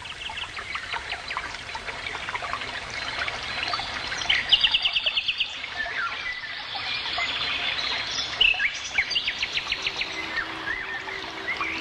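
A chorus of songbirds singing and calling: many quick chirps and whistles, with a fast trill about four seconds in and another about eight seconds in.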